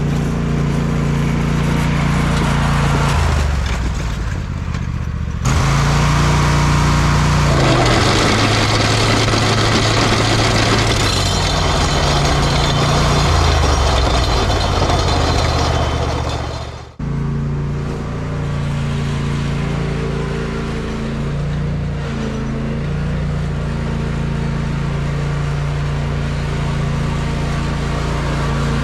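Small engine running steadily, its sound changing abruptly about a fifth of the way in and cutting sharply just past halfway before carrying on.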